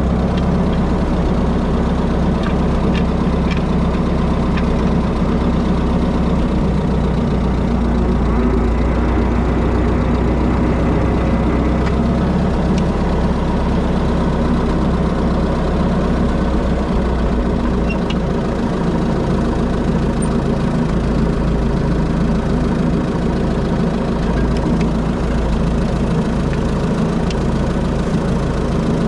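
Tractor engine running steadily at an even, low pitch with no change in speed.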